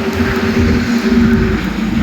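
Heavy truck passing close on a highway: a loud low engine rumble with a steady drone and tyre noise that grows louder as it comes near.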